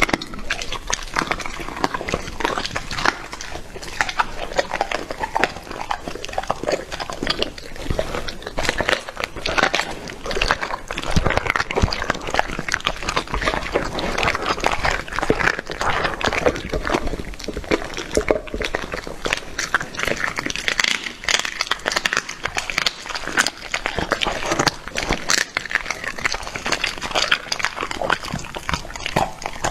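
A dog chewing and biting into raw meat, a steady run of quick wet smacks and clicks.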